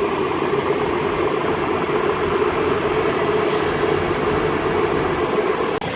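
ScotRail Class 158 diesel multiple unit standing at the platform after arriving, its diesel engines running with a steady drone.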